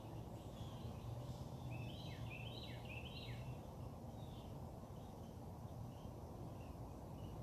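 A songbird sings one phrase of quick, repeated slurred notes about two seconds in, with fainter bird chirps scattered around it. Under it runs a steady low background hum.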